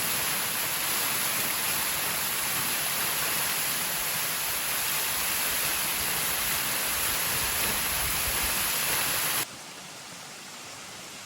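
Steady rushing noise of falling water, a waterfall or heavy rain, that starts abruptly and cuts off suddenly about nine seconds in.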